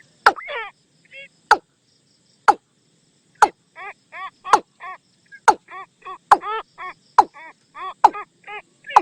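Recorded calls of a watercock played as a decoy lure: sharp knocking notes about once a second, and from a few seconds in, quick runs of short arched hollow notes, about three or four a second, between the knocks.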